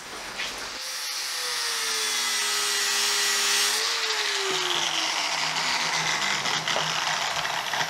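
Angle grinder grinding a flat spot onto a steel locking-wheel-nut removal tool so it can be gripped in a vise. The motor starts about a second in, grinds with a high hiss for about three seconds, then winds down with falling pitch.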